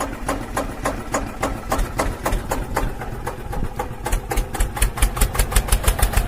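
Engine chugging with a steady run of sharp knocks, about five a second, in the manner of a single-cylinder diesel. The beat quickens and grows louder with heavy low thumps in the last couple of seconds.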